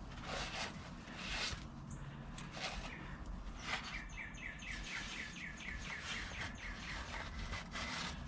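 A small bird chirping, with a quick run of short repeated chirps, about four a second, in the middle. Intermittent short scuffing strokes are heard alongside.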